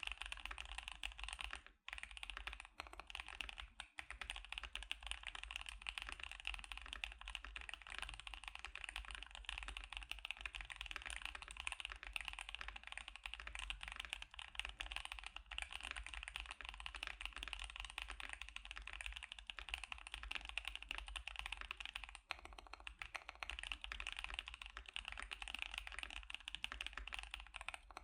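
Continuous typing on a KBD75 mechanical keyboard with Gazzew Boba U4T tactile switches and CannonCaps CXA Sugarplum keycaps: a dense stream of keystrokes, with short breaks about two and four seconds in.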